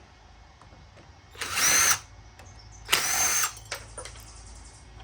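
Power drill with a driver bit, run in two short bursts about a second and a half apart to back screws out of a furnace burner assembly for scrap. A few small metal clicks follow.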